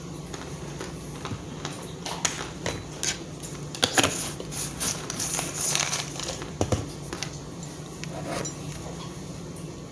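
Cutlery and dishes clinking and scraping during a meal: scattered sharp clicks and short scrapes, busiest from about two to seven seconds in, over a steady low hum.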